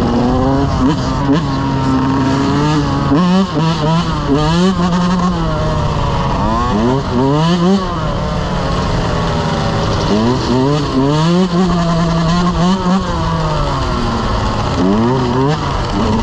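Several dirt bike engines revving, their pitch rising and falling again and again over each other, with one engine held at a steady pitch at times.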